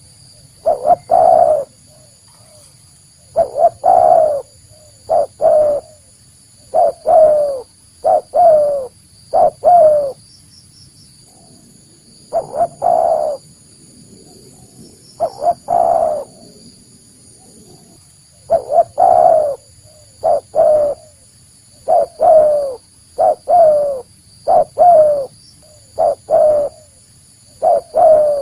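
Spotted dove cooing in repeated phrases of short, slightly falling coos, two to five notes each, with brief pauses between phrases.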